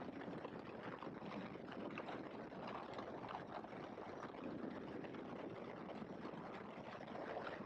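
Steady, faint rush of wind and engine noise in the open cockpit of a Great Lakes biplane in flight.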